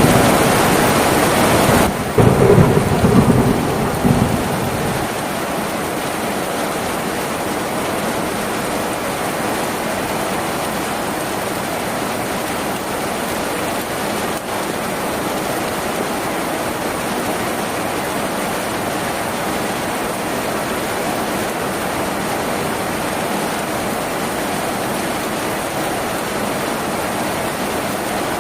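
Heavy rain falling on a tin roof, a steady hiss. A low rumble of thunder runs under it at first and dies away about five seconds in.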